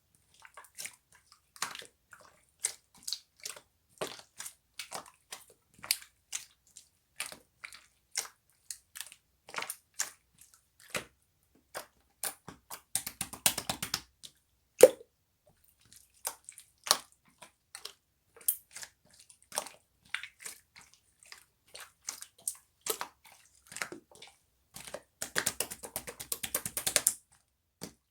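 Slime being squished and pressed by hand, making sharp wet clicks and pops about once or twice a second. Two longer stretches of dense crackling come around the middle and near the end.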